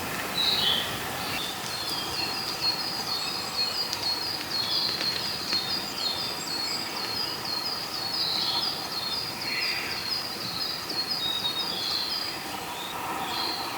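A high, short chirping call from a forest animal, repeated about three times a second for most of the stretch and pausing briefly near the end, over a steady outdoor background hiss.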